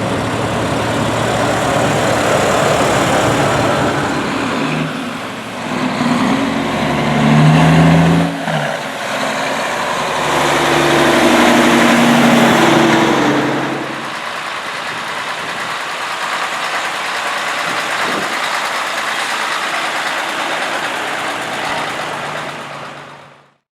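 Big diesel truck engines running in a line of trucks, one pulling through with the engine note rising and falling in the middle, then a steadier engine sound that fades out near the end.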